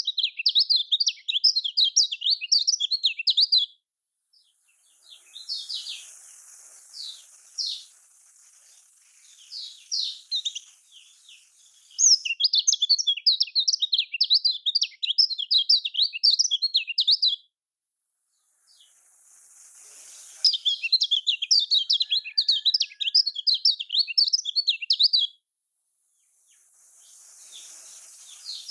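Kecial kuning white-eye singing: three bouts of rapid, high-pitched twittering song, each several seconds long, the first at the start, then about twelve and twenty seconds in. Scattered single chirps and a faint hiss come between the bouts.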